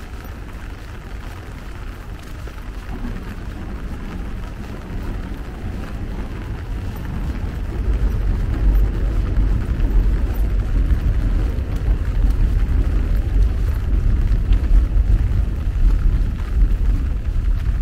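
Subway train running on the elevated concrete viaduct alongside: a low rumble that builds over the first eight seconds and then stays loud, over a steady hiss of rain.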